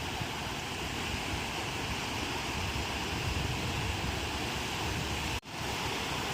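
Ocean waves breaking on a shore, a steady wash of surf with wind buffeting the microphone; the sound cuts out for an instant near the end.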